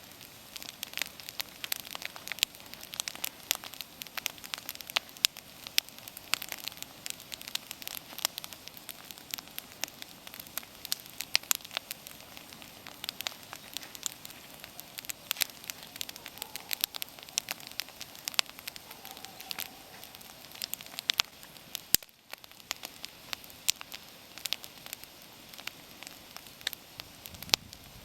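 Wood bonfire crackling: frequent, irregular sharp pops and snaps over a soft steady hiss of burning.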